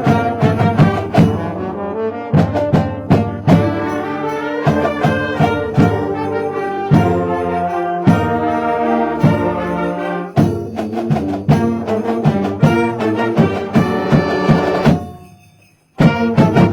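High school band playing a holiday tune on brass instruments and drums. The music fades away about fifteen seconds in, then ends with one last short, loud burst.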